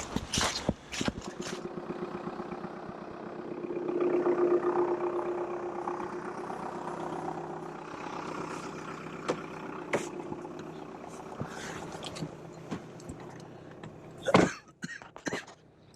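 A motor vehicle's engine running with a steady hum that swells about four seconds in and then slowly fades. Footsteps at the start, and a single sharp knock near the end.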